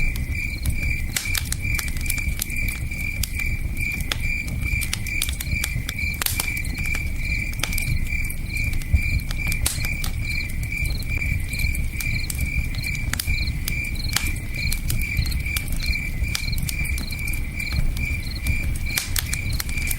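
Campfire crackling with scattered sharp pops, over a low steady rush of a river, while a cricket chirps in an even, rapid high-pitched pulse throughout.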